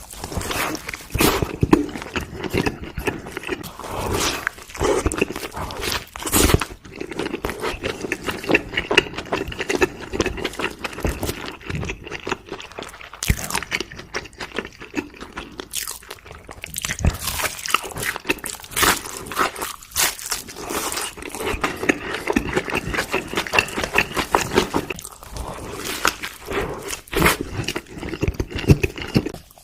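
Close-up chewing and crunching of food, a dense run of irregular crackles and clicks with brief pauses.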